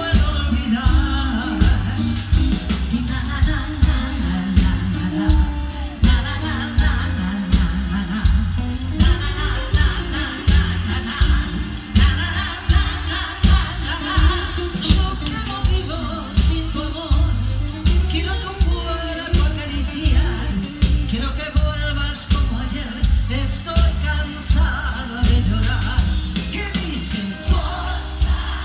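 Live pop band music with a steady, heavy bass beat and a wavering melodic lead line above it.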